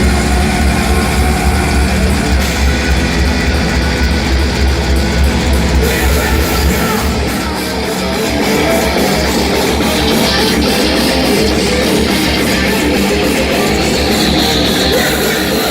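Industrial metal band playing live and loud, with distorted electric guitars, bass and drums. The heavy low end eases off for a moment about halfway through, then comes back under fast, even drumming.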